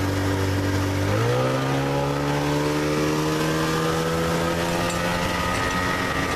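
Motorboat engine running steadily, then throttled up about a second in: its pitch jumps and then climbs gradually over the next few seconds as the boat gathers speed.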